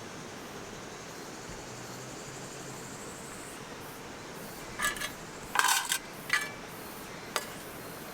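Metal objects clinking and clattering against each other in four short bursts, starting about five seconds in, the last a single sharp clink, over a steady rushing background hiss.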